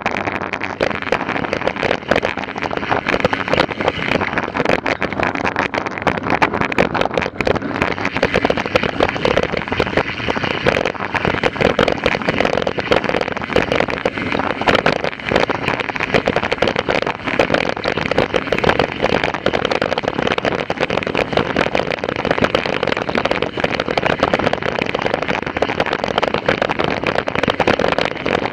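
Continuous dense rattling and crackling from a mountain bike ridden over rough ground, heard from on board, steady throughout.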